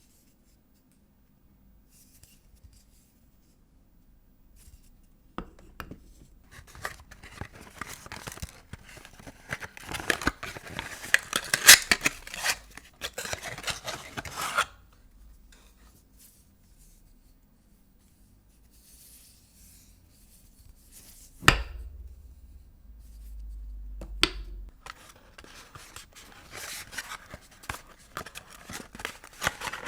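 Vintage soap bars being unwrapped by hand: the paper wrappings crinkle and tear in two long spells, starting after a few quiet seconds, with a single sharp knock about two-thirds of the way through.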